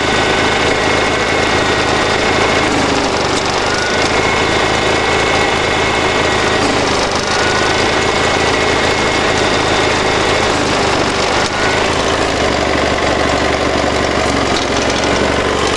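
Gravely 7173H garden tractor engine running steadily, its low note shifting about three-quarters of the way through.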